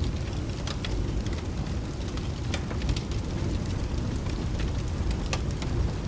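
Steady rain with a continuous low rumble of thunder underneath, and scattered sharp crackles and pops from a wood fire.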